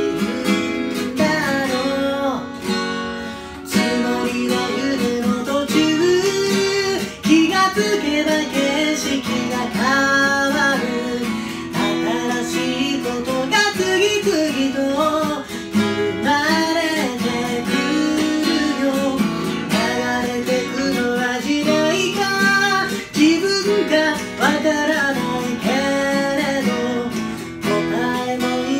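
Acoustic guitar strummed as accompaniment to a woman singing.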